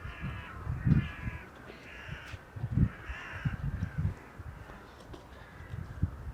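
Crows cawing, about four harsh calls in the first three and a half seconds, over low thuds of footsteps.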